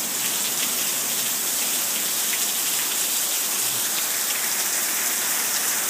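Heavy rain coming straight down onto a patio and lawn: a steady, even hiss.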